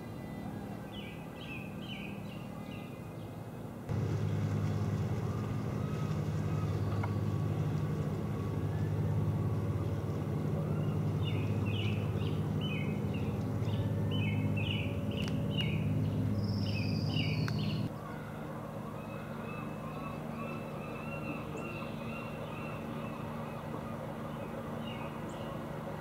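Birds chirping and trilling in the trees over a light outdoor background. A steady low mechanical hum starts abruptly about four seconds in and cuts off abruptly about four-fifths of the way through.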